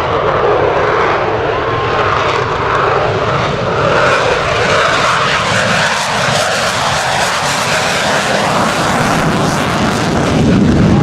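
Aircraft engine running loudly and steadily, its pitch drifting upward through the first half, with a deeper low rumble swelling near the end.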